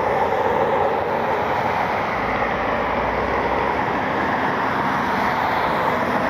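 Steady jet engine roar from an airliner on the airfield, holding an even level without rising or falling.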